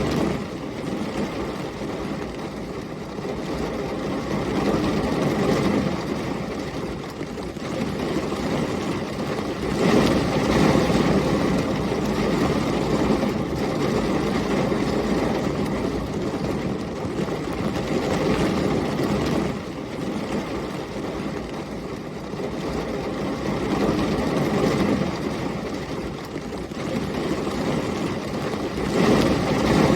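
Heavy rain with storm wind, a dense steady hiss over a low rumble, surging louder and easing back every few seconds.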